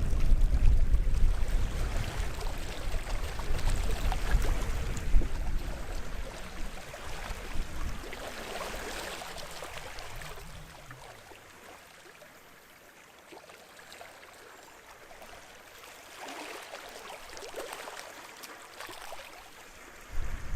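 Small sea waves washing and lapping at the shore, in gentle swells a few seconds apart. Wind rumbles on the microphone for the first several seconds and dies away about ten seconds in.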